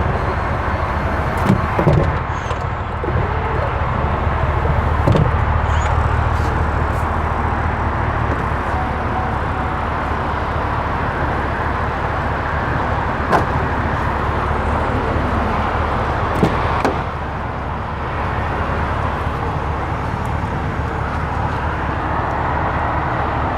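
Steady low hum of the running 2018 GMC Yukon Denali, with a few sharp clicks and knocks from its doors or seat latches being handled; the hum drops slightly about two-thirds of the way through.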